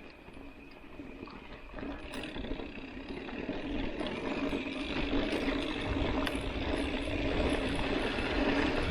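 Mountain bike rolling over a dusty dirt road: knobby-tyre hum and rattling, growing steadily louder as the bike gathers speed.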